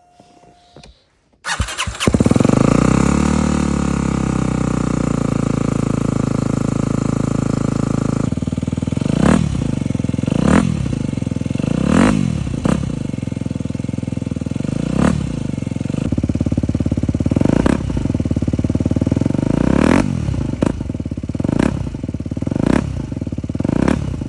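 Aprilia SX125's 125cc single-cylinder four-stroke engine, with an Arrow exhaust, cold-starting in snow: it catches about a second and a half in and holds a steady fast idle, then drops to a lower idle and is blipped about a dozen times in short revs.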